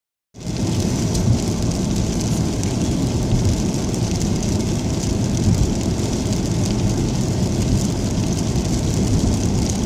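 Car driving in rain: steady tyre and road noise with rain hitting the car.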